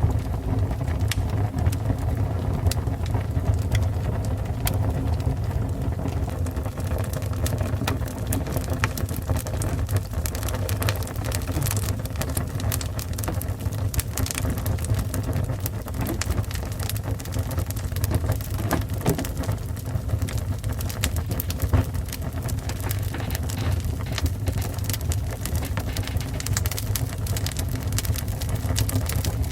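Fire burning with a steady low rumble and frequent small, irregular crackles and pops.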